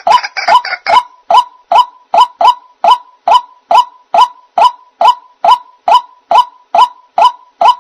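White-breasted waterhen (ruak-ruak) calling: a steady run of short, hooked notes repeated a little over twice a second.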